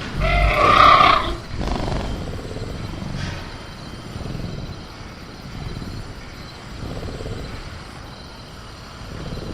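Velociraptor sound effect: a loud growling roar for about the first second and a half, then quieter low rumbling.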